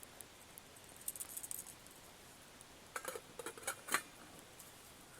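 Light metallic clicks and clinks of a folding hobo utensil tool being handled: a few faint ones about a second in, then a cluster of sharper clicks around three to four seconds in.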